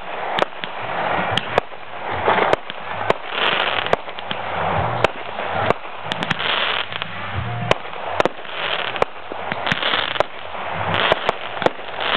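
Aerial fireworks going off in a rapid string of sharp bangs and crackles, several a second, between swells of hiss.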